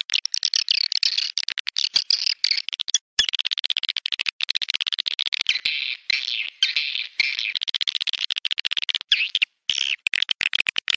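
Dense, continuous high twittering of swiftlets, broken by many brief cut-outs.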